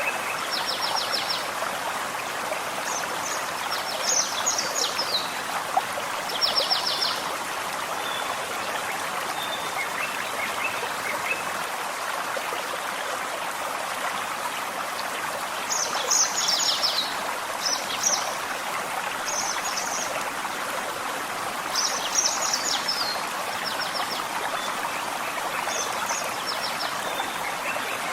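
Gentle forest stream running steadily, with small birds singing short high trilled and chipping phrases every few seconds over the water.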